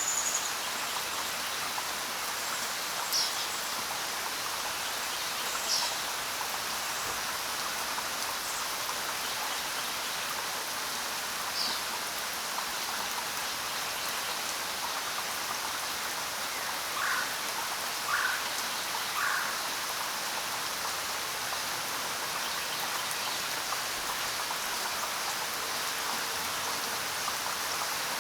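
Steady rain falling, with a few brief bird chirps scattered through it, including three short lower calls in quick succession about two-thirds of the way in.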